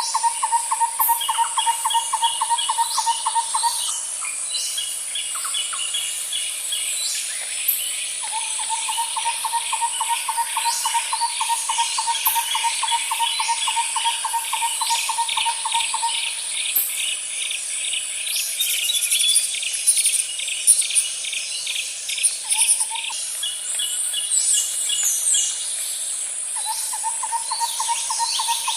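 Outdoor insect and bird chorus: a steady high insect drone, with long pulsing trills of several seconds repeating in bouts and rapid trains of chirps above them. Short higher bird calls cut in about two-thirds of the way through.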